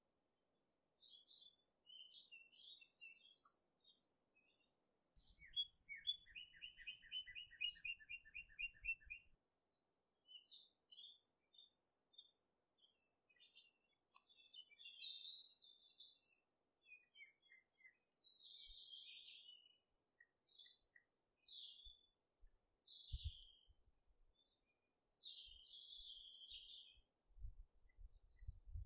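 Faint songbirds chirping and twittering in short, varied calls. Between about five and nine seconds in, one bird gives a rapid trill of repeated notes, about four a second.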